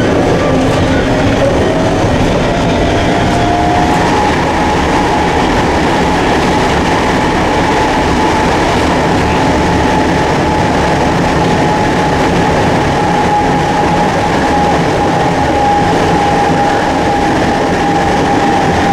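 Circumvesuviana local electric train running on the rails, a steady rumble with a motor whine that rises in pitch over the first few seconds as it gathers speed, then holds steady.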